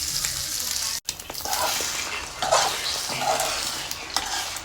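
Eggs sizzling in a frying pan while being stirred, with repeated scraping strokes in the pan. The sound cuts out briefly about a second in.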